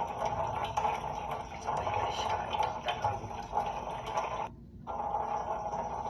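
Water running and splashing as a tanager bathes in a person's hand. The sound drops out briefly about four and a half seconds in.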